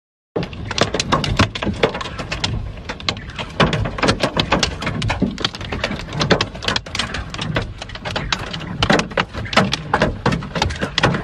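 Large hailstones and heavy rain hitting hard surfaces: a dense, irregular clatter of many sharp impacts over a steady hiss.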